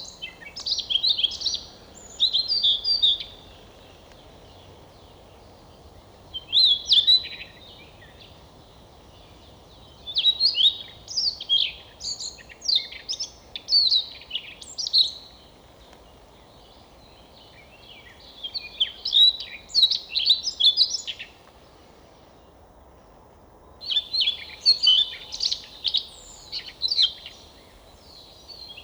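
Siberian rubythroat singing: phrases of rapid, high twittering and warbling notes, each lasting a few seconds and separated by pauses of a few seconds, over a faint steady background hiss.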